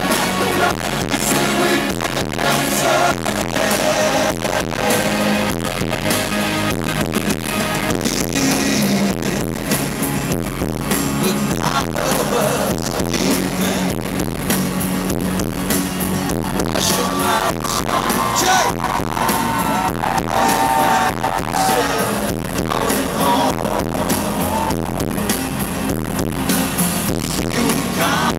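A pop band playing live in a stadium: a loud, steady drum-driven backing, with voices singing over it in places.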